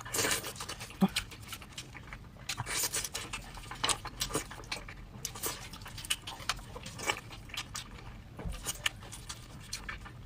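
A person eating close to the microphone: chewing and mouth noises, with many short irregular clicks and smacks.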